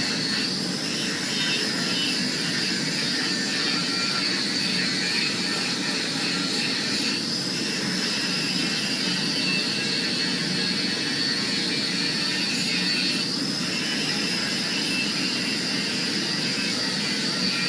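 A power grinder grinding scale off a forge-welded damascus billet of 1095 and 15N20 steel, a steady high whine over a grinding hiss that shifts slightly in pitch as the steel is pressed against it.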